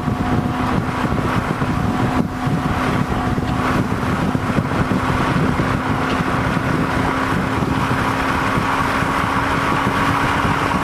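Corvette C6 V8 running hard at a steady engine speed on track, a constant drone mixed with heavy wind and tyre noise.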